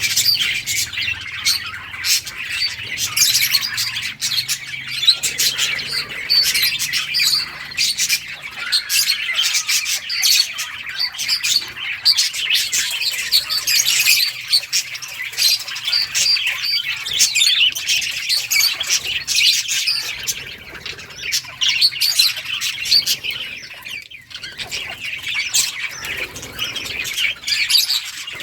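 A flock of budgerigars chirping and chattering continuously, many birds calling over one another with short chirps and squawks.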